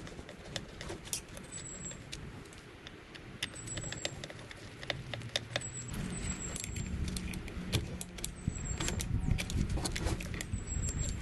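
Scattered metallic clicks and clinks of hand tools working on an old garbage disposal unit, over a low background rumble.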